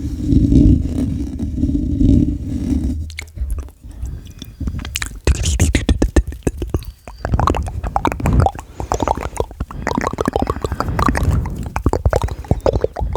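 ASMR mouth sounds made close to the microphone: a low steady hum for about the first three seconds, then a rapid run of wet clicks and smacks from the lips and tongue.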